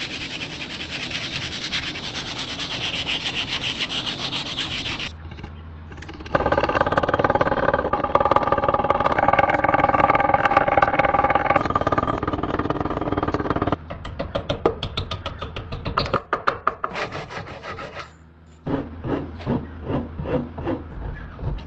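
Knife-finishing work in several short segments: even rubbing and scraping first, then a steady whine for several seconds in the middle, then quick repeated strokes in the last few seconds.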